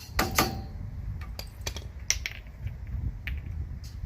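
Metal tools and parts clinking: two sharp metallic strikes that ring briefly just after the start, then scattered lighter clicks and taps.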